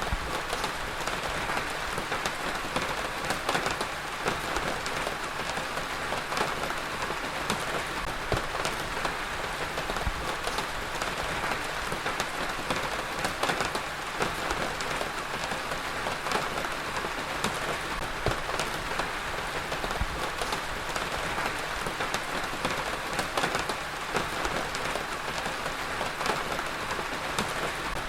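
Heavy rain falling steadily on a surface, a dense continuous patter with many individual drops ticking through it.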